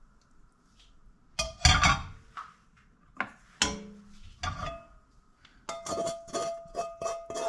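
Dishes and utensils clattering and clinking: a quick burst of knocks about a second and a half in, then a few single clinks. Light plucked-string background music starts near the end.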